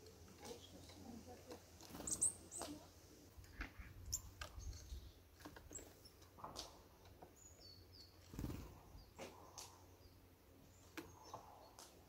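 Small songbirds, Eurasian nuthatches and tits, at a wooden feeder: a scatter of faint irregular taps and scrabbles as they peck seeds and hop about the tray, with a few short high chirps and a soft thump about eight seconds in.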